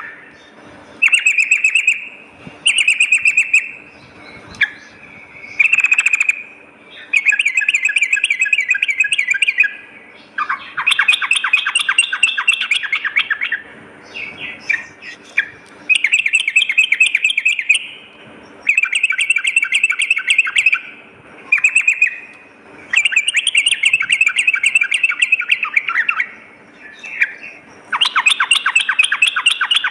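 Yellow-vented bulbul (trucukan) singing: about a dozen bouts of fast, chattering phrases, each a second to three long, with short pauses between.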